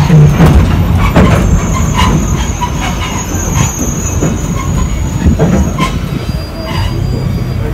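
A passenger train rolling along the track, heard from aboard an open-sided car: a steady rumble with sharp knocks from the wheels and rails, and a thin, high wheel squeal from about a second in until near the end.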